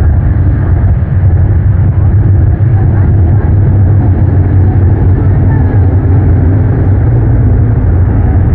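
Race engines of cars circling the oval: a loud, steady low rumble.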